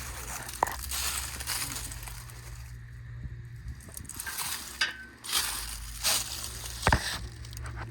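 Footsteps crunching through dry ground cover, uneven and irregular, with a couple of sharp clicks.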